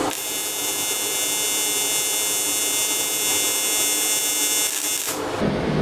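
AC TIG welding arc on aluminum, a steady high buzz that stops about five seconds in.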